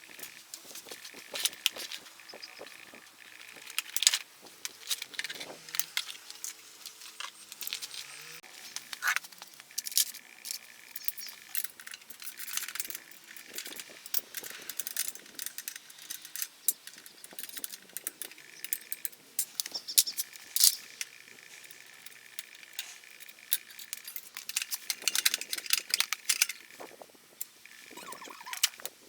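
Metal hand tools and motorcycle parts clinking and clattering in irregular knocks and clicks while a Honda Super Cub is being dismantled.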